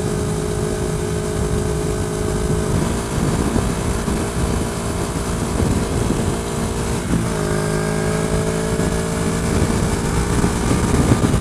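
Motorcycle engine running at road speed, heard with wind noise on a helmet-mounted camera. About seven seconds in its pitch dips, then climbs steadily.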